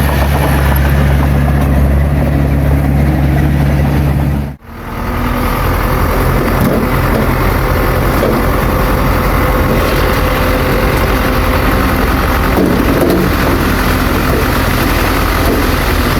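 Heavy diesel engine of a bulldozer running steadily. About four and a half seconds in, the sound cuts out for an instant and comes back with a different, rougher engine note.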